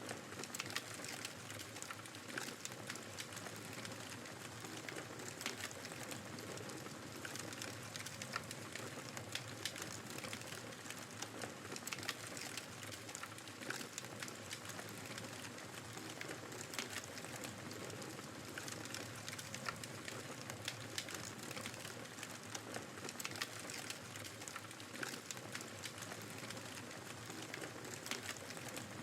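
Wood fire crackling in a fireplace, with frequent small irregular pops, over the steady rushing noise of a snowstorm's wind.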